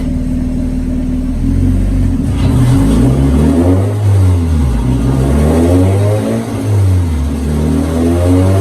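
Spec Miata's worn-out four-cylinder engine running on a chassis dyno, steady at first, then from about two seconds in opening up and winding up under load in a baseline power pull, its pitch rising.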